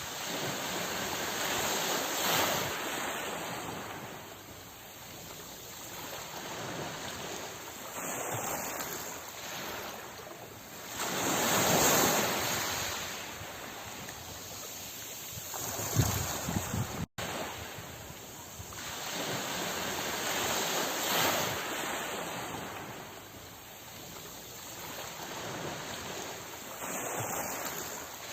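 Sea waves breaking and washing in, the surf swelling and ebbing in slow surges every few seconds, loudest about twelve seconds in. The sound cuts out for an instant about seventeen seconds in, where the recorded loop restarts.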